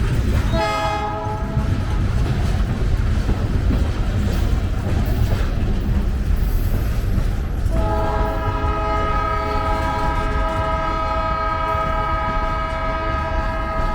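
TZPR locomotive 1351 rolling past with a steady low rumble, sounding its horn in a short blast about half a second in, then a long held blast from about eight seconds in.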